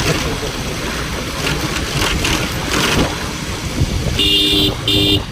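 Road and wind noise from a moving vehicle, then a vehicle horn sounding twice in short blasts about four seconds in.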